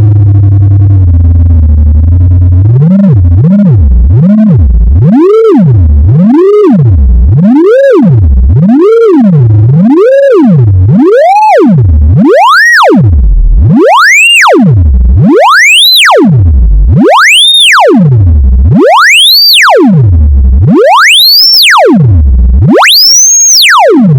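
Electronic speaker-cleaning tone, played loud to vibrate water and dust out of a speaker. It opens as a low steady hum, then from about three seconds in turns into repeated up-and-down pitch sweeps. The sweeps grow wider and slower as it goes, the last ones rising to a high whistle.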